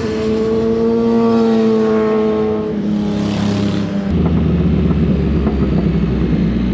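Can-Am Spyder's Rotax 1330 ACE three-cylinder engine running under way with a steady, clear engine note. About four seconds in, the sound changes abruptly to a deeper, rougher rumble.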